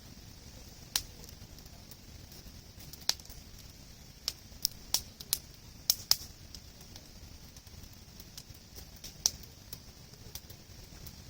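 Wood campfire crackling, with a dozen or so sharp irregular pops, several close together around the middle, over a steady hiss.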